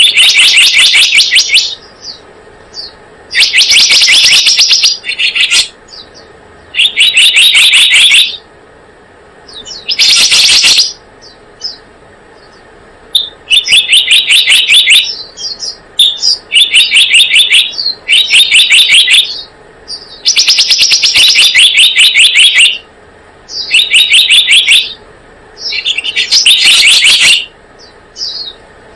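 Recorded lure call of the selendang biru bird: bursts of fast, rapidly repeated high chirps, each about a second long, coming again every two to three seconds. The recording is loud and clipped.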